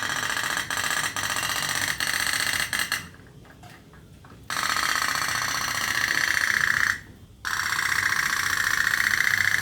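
Toy pop-pop (otok-otok) boat's little steam engine putting in a fast, even buzz, with a few sharp clicks in the first three seconds. It cuts out for about a second and a half around three seconds in, and briefly again about seven seconds in.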